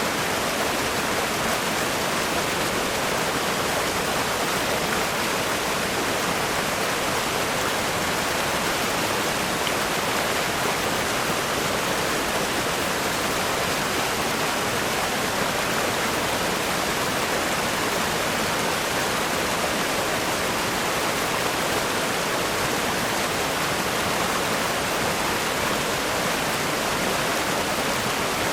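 River rapids rushing over rocks: a steady, dense roar of water.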